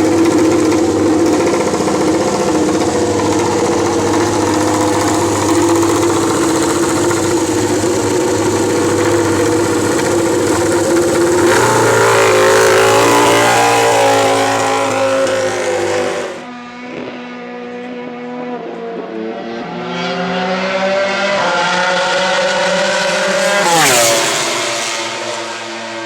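Ducati MotoGP race bike engine running loud, held at steady revs for about eleven seconds, then changing pitch through the rest of the stretch, with a sharp quick rev up and down near the end.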